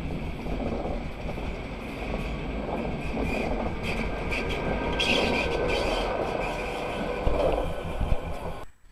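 Double-deck electric commuter train passing close at speed on a curve: a steady rush of wheels on rails, with high wheel squeal around the middle and a couple of sharp knocks near the end. The sound cuts off suddenly just before the end.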